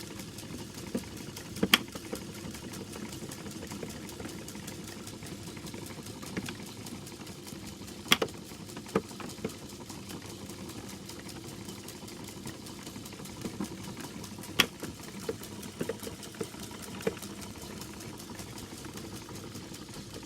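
The mechanism of a 1930s sawmill automaton running with a steady, fast, light clatter. A sharp click or knock comes about every six and a half seconds, three times in all, with fainter ticks in between.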